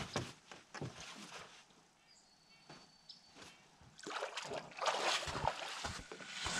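Water sloshing around a small boat, with scattered knocks on the hull, then a louder splashing rush with a few low thumps from about four seconds in.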